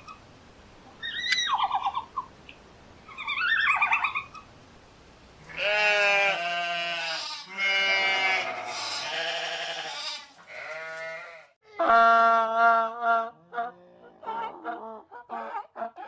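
Sheep bleating repeatedly: three short, high-pitched bleats in the first few seconds, then a run of longer, lower, wavering bleats from about the middle on.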